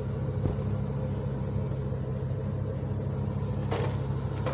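Vehicle engine running steadily with a low drone, heard from inside the vehicle, with a couple of sharp clicks near the end.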